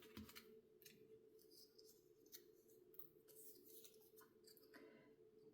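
Near silence with faint paper rustling and light taps: small pre-cut cardstock pieces being handled and shuffled on a desk.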